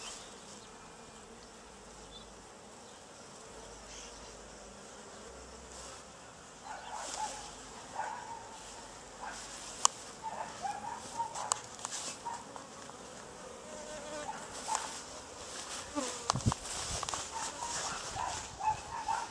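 Honeybees buzzing around their exposed comb, individual bees flying close past with wavering buzzes that grow more frequent from about seven seconds in. A few sharp clicks are heard among them.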